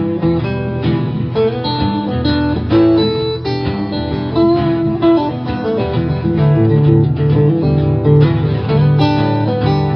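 Folk/Americana band playing an instrumental passage without vocals, led by guitar.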